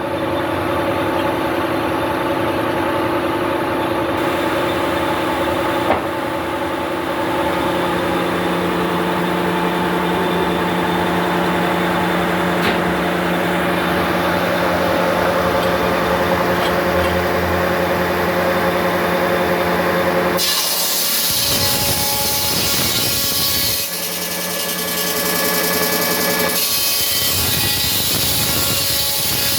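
Sawmill saw cutting through wood, with the machinery's steady hum underneath. About two-thirds of the way in the sound changes abruptly to a harsher, hissier cut, and it shifts again twice in the last few seconds.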